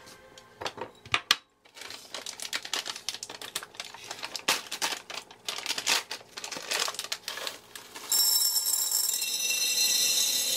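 A quick run of small clicks and taps, like light objects being handled and set down. About eight seconds in, a steady hiss with faint high tones takes over.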